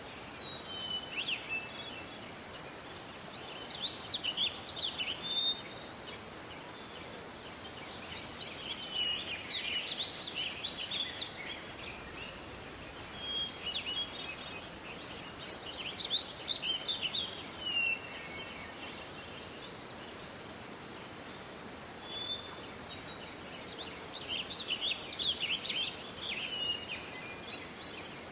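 Songbird song: bursts of rapid, varied chirping phrases coming four times, with short single whistled notes between them, over a steady background hiss.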